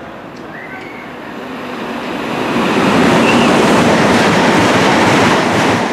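A passenger train running through the station at speed without stopping: a rush of wheel and air noise that builds, stays loud for about three seconds, then falls away sharply near the end.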